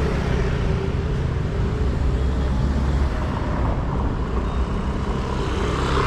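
Motor vehicle traffic: a steady low rumble of engine and road noise with a faint hum.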